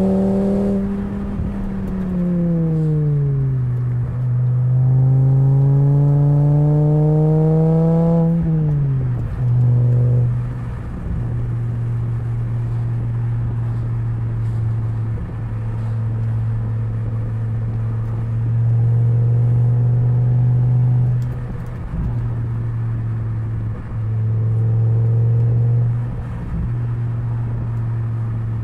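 2004 Volvo V70's naturally aspirated 2.4-litre inline-five, heard through a Borla XR1 muffler while driving. Revs rise and fall over the first ten seconds, with one long pull climbing for about four seconds before dropping off quickly. The engine then holds a steady note, swelling louder twice near the end.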